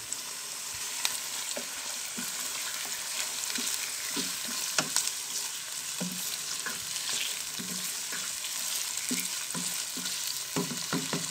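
Raw chicken pieces and sliced onions sizzling in hot oil in a pan, steady frying hiss, with a spatula stirring and scraping against the pan in scattered short knocks.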